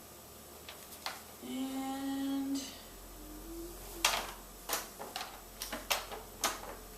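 Sharp plastic clicks and knocks from handling the parts and controls of a Panasonic Jet Force upright vacuum cleaner, in a quick irregular string about every half second in the second half. Before that comes a woman's drawn-out hummed "and".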